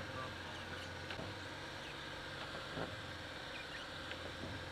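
Lada Niva VAZ-2121 engine running steadily, a low even drone heard from inside the car, with a few faint ticks.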